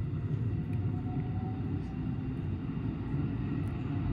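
Steady low rumble of a 223 series 2000 electric train running along the track, heard from inside the driver's cab.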